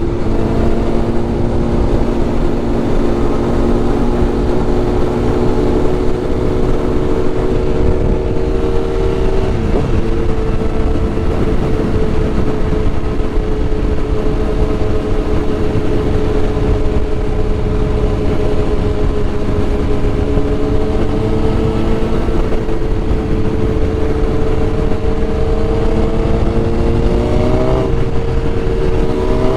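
Sport-bike engine, a 2001 Suzuki GSX-R 1000 inline-four, cruising at a steady pitch under heavy wind noise. The note shifts about a third of the way in, then rises sharply near the end before dropping, as with a rev and a gear change.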